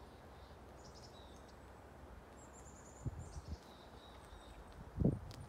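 Small birds chirping in woodland: several short high calls and a brief trill over a faint steady outdoor hiss. Low dull thumps about three seconds in and again near the end.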